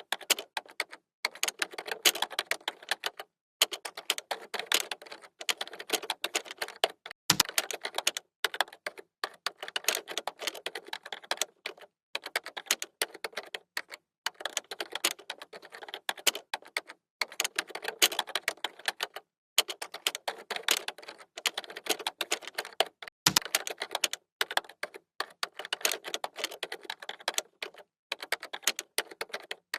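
Computer keyboard typing: fast runs of key clicks broken by short pauses, with a heavier key strike twice.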